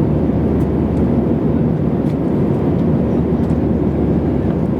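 Steady low roar inside an airliner's passenger cabin: jet engine and airflow noise holding an even level.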